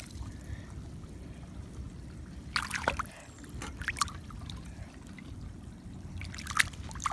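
Floodwater trickling into a backyard catch basin drain, with a few scattered splashes.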